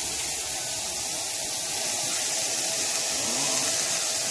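Two beef burger patties sizzling steadily in a hot cast-iron skillet: a constant high hiss of frying.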